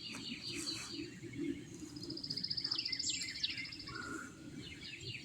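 Several wild birds chirping and calling, with a fast, even trill of repeated high notes about two seconds in, over a faint low background hum.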